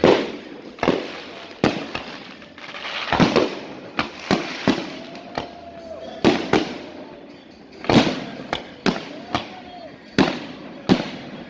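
A rapid series of loud, sharp bangs at irregular intervals, sometimes two or three within a second, each trailing off in an echoing rumble.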